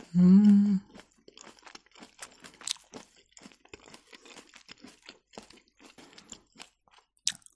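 Close-miked chewing of a grated beetroot salad with nuts: many small, irregular wet crunches and mouth clicks. It opens with a short hummed "mm", and there is one sharper click near the end.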